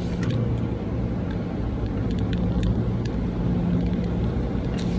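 A car running steadily, a constant low engine and road drone.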